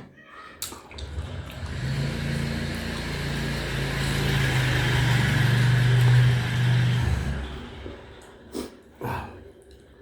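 A motor vehicle passing by. Its engine hum and road noise grow louder, peak, then fade away.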